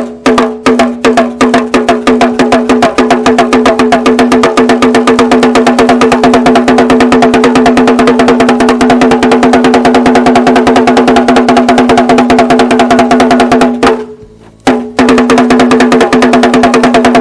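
A drum with a clear ringing pitch beaten in quick, even strokes. The strokes run together into a fast roll after a couple of seconds, break off briefly about fourteen seconds in, then resume. It is the village drum sounded to call people to gather.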